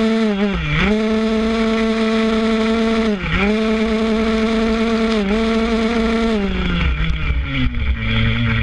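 Small two-stroke motocross bike engine held at high revs. The pitch drops sharply and recovers about three-quarters of a second and about three seconds in, as with gear changes, dips slightly twice more, then falls away near the end as the revs come down.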